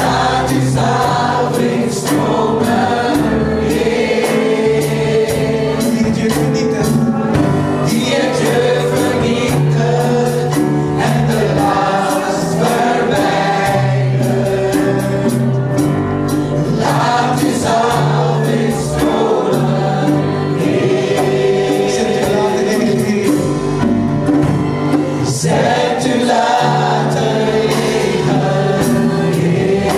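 Praise team choir singing a gospel worship song with band accompaniment, a steady bass line and cymbals underneath.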